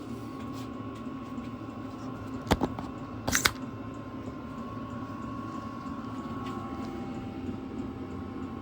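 Two short, sharp knocks about a second apart, the second one doubled, over a steady low hum.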